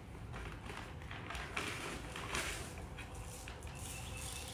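Birdseed being poured into a bowl: a few short, noisy pattering pours spaced about a second apart.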